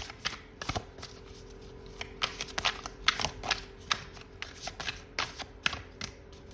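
A deck of tarot cards being shuffled by hand: a quick, irregular run of papery snaps and slaps as the cards are cut and pushed through one another.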